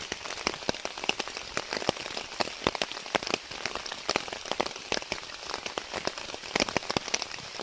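Heavy rain falling on a Naturehike Cloud Peak 2 tent, heard from inside: a steady hiss with dense, irregular taps of drops striking the fabric.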